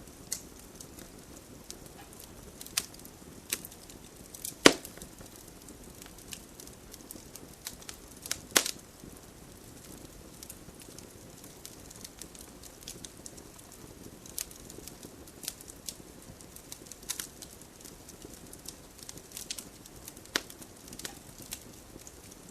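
Wood campfire crackling: irregular sharp pops and snaps over a soft low hiss, with two louder pops about five and eight and a half seconds in.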